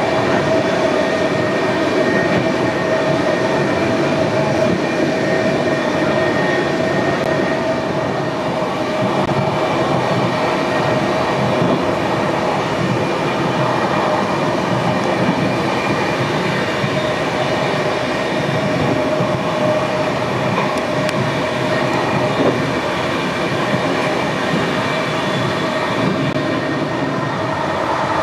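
Passenger train running steadily, with a continuous rolling rumble and a steady whine held throughout.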